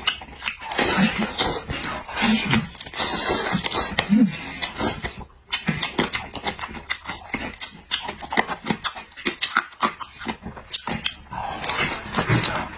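Close-miked eating sounds: wet chewing and lip-smacking clicks in an irregular run, with a few brief low hums.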